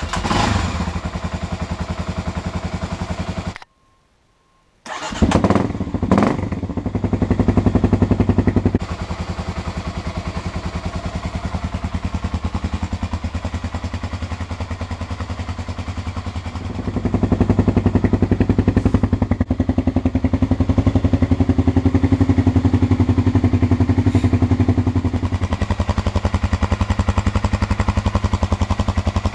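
Kawasaki KLX250S single-cylinder four-stroke dirt bike engine running through its exhaust. It stops for about a second, starts again with a couple of quick revs, settles to idle, then is held at a higher steady speed from about halfway through before easing back slightly near the end.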